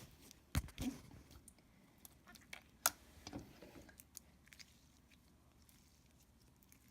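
Thick, slightly sticky clear slime with small foam beads being squished and pulled by hand, giving scattered sticky clicks and small pops.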